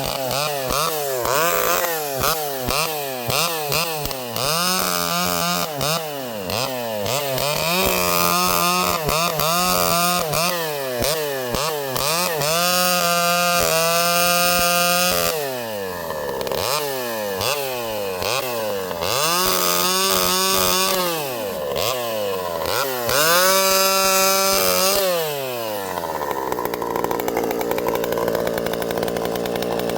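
Vintage Pioneer two-stroke chainsaw revving up and down rapidly, held at high revs for a few seconds at a time, then dropping to a steady idle about 26 seconds in.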